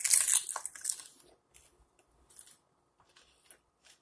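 Close-up eating sounds: a loud crunching bite into a crispy fried chicken flauta, lasting about a second, then fainter, irregular chewing crackles.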